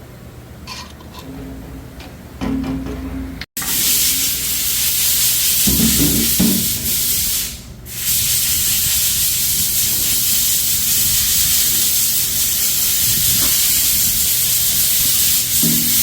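Loud, steady spraying hiss, as of a jet of air or liquid, that starts abruptly a few seconds in and keeps going, with one short break soon after it starts. Before it, a few light knocks.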